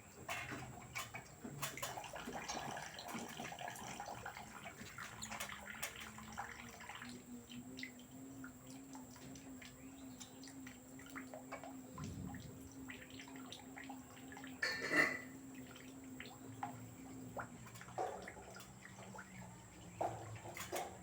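LG direct-drive front-loading washing machine tumbling its drum: water sloshing and splashing, with a steady motor hum that rises slightly, holds for about ten seconds and then stops. There is one louder slosh about three-quarters of the way through.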